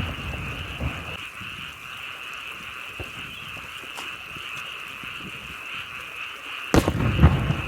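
A steady chorus of frogs croaking. The rumbling echo of an aerial firework burst fades over the first second, and near the end another firework shell bursts with a sharp bang followed by a rolling rumble.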